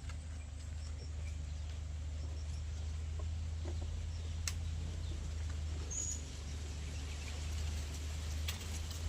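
A single brief, high bird peep about six seconds in, over a steady low hum with scattered light clicks and rustles.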